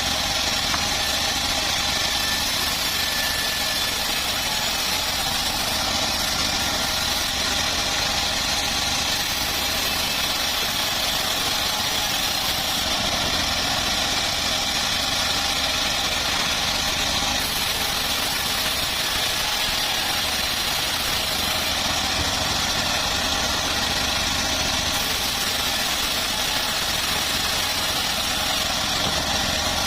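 Engine-driven homemade bandsaw mill running steadily, holding one even pitch and level.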